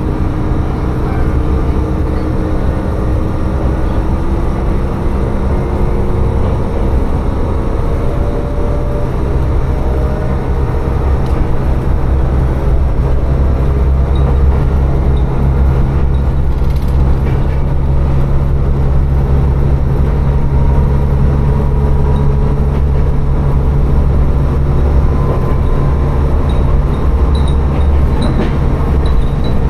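Tsugaru Railway diesel railcar running along the line: a steady low engine drone under the rumble of the wheels on the rails, slightly heavier in the second half.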